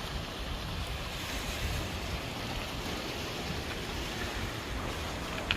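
Sea surf washing onto the beach, a steady rush, with wind buffeting the microphone. A short sharp click sounds near the end.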